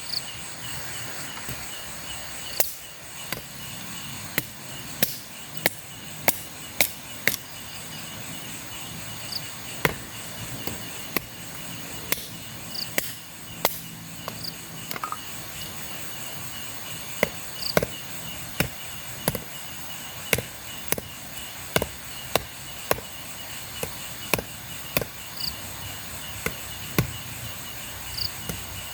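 Machete chopping wood: sharp, irregular blows about once a second, over the steady chirring of crickets.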